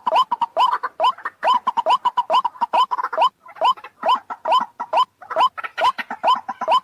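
White-breasted waterhen calling: a fast, even run of short notes, each hooking upward in pitch, about three a second, with a brief break about halfway through.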